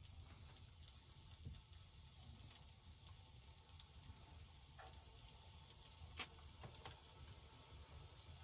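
Faint, steady sizzling of meat frying in a pan, with a few small ticks and one sharp click about six seconds in.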